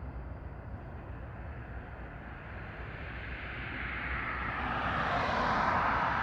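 Rushing noise of an approaching freight train, swelling over a steady low rumble to its loudest near the end.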